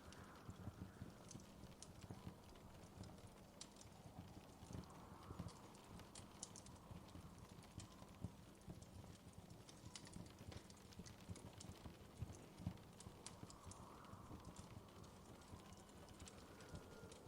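Wood fire crackling softly in a fireplace, with irregular small pops and snaps over a low, steady rumble.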